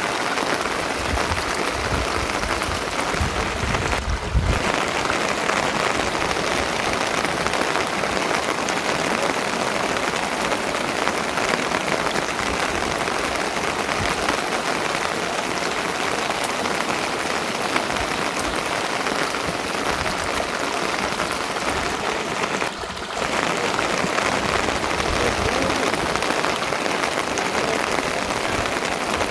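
Steady rain falling on a surface, an even hiss of many drops, with two brief dips.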